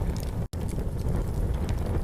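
Campfire crackling, with short sharp pops from the burning wood over a steady low rumble. The whole sound drops out for an instant about half a second in.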